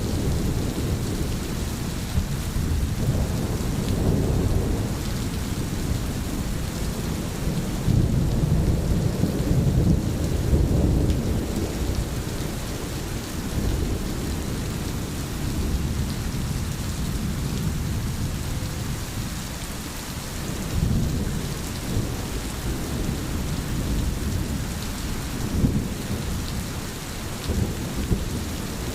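Heavy rain falling in a steady hiss, over a low rumble that swells and fades throughout.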